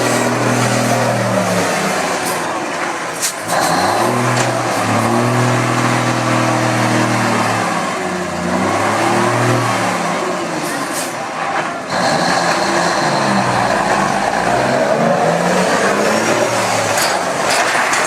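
Heavy dump truck's diesel engine running and revving, its pitch rising and falling repeatedly, with brief drops in level about 3 and 12 seconds in.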